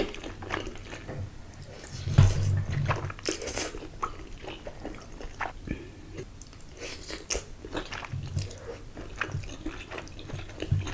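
Close-miked eating: a person biting and chewing crunchy food, with many crackly crunches and wet mouth sounds, and the loudest bite about two seconds in.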